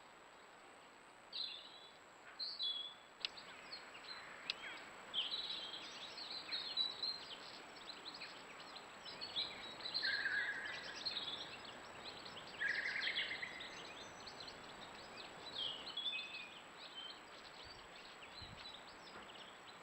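Small birds chirping and twittering, many short overlapping calls, with a couple of longer buzzy notes about halfway through.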